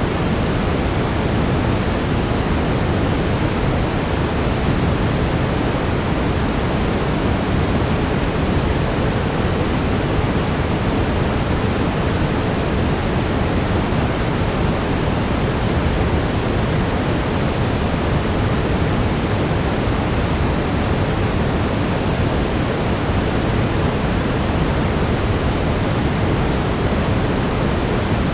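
Steady brown noise, a deep even hiss weighted toward the low end, unchanging throughout, with a faint steady tone in the lower mids.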